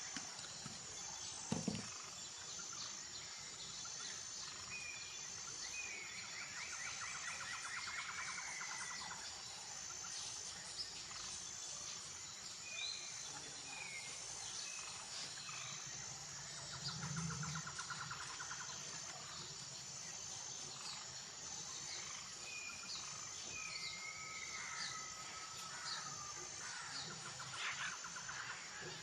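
Outdoor birdsong ambience: scattered short chirps and whistled calls and a few buzzy trills over a steady, evenly repeating high chirp, with a couple of brief light taps, a sharper one about one and a half seconds in.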